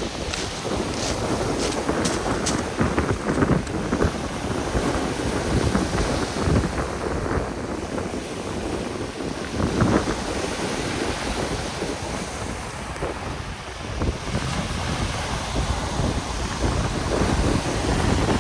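Strong gusting wind buffeting the microphone over the rush of Black Sea surf.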